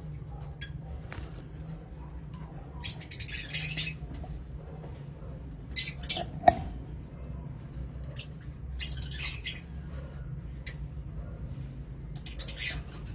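Red factor opaline lovebird giving harsh, high-pitched squawks and chirps in short bursts, about half a dozen times, over a steady low hum.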